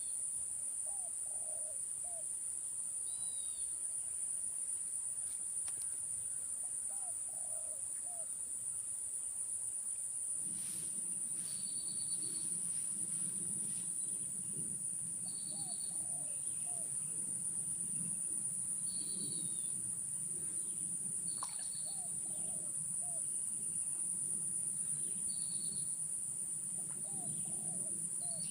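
Steady high-pitched drone of insects, with a bird repeating a short call of a few notes every three to four seconds. A low rumble joins about a third of the way in.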